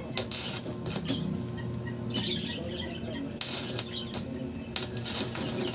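Irregular knocks and rattling clatter, with scattered short bird chirps over a steady low hum.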